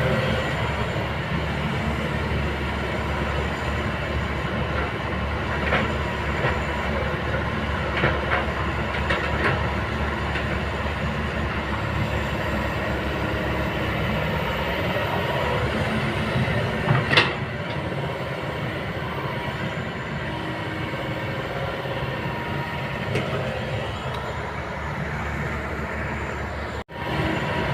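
Kobelco hydraulic excavator working, its diesel engine running steadily, with a few sharp knocks; the loudest comes about two-thirds of the way through. The sound drops out for an instant near the end.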